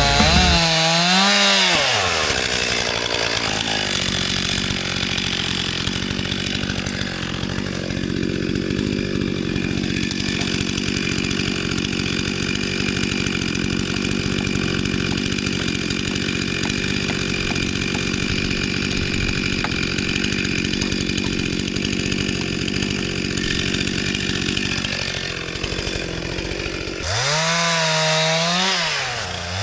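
Two-stroke chainsaw limbing a fallen tree. The engine's pitch rises and falls with the throttle for the first couple of seconds and again near the end, with a long stretch of steady full-throttle cutting in between.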